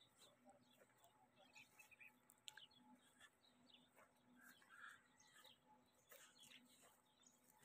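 Faint, scattered bird chirps over near silence.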